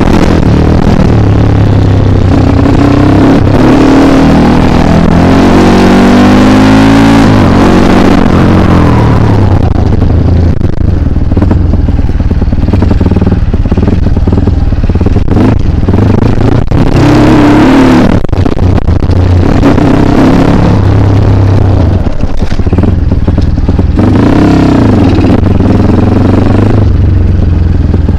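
Trail motorcycle's single-cylinder engine revving hard, pitch rising and falling as the throttle is worked, with clattering and knocking as the bike rides over rough ground. The engine eases off about ten seconds in and revs up again several times.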